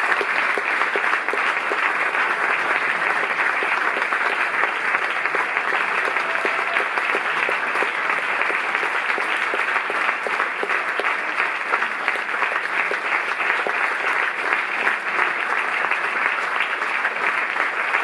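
Concert audience applauding, a steady, dense round of clapping that continues without a break.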